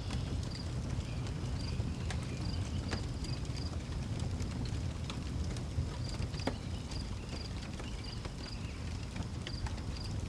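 Outdoor wood fire crackling, with scattered sharp pops over a steady low rumble, while crickets keep up a high, evenly repeated chirping.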